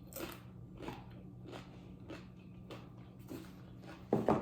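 Close-up chewing, crunching on tortilla chips, about one crunch every two-thirds of a second, with a louder crunch near the end.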